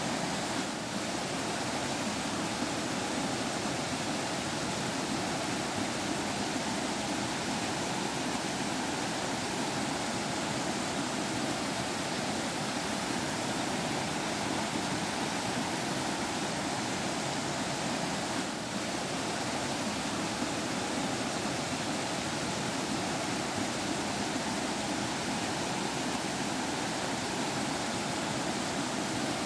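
Forest stream water flowing and babbling over rocks in a steady, even rush.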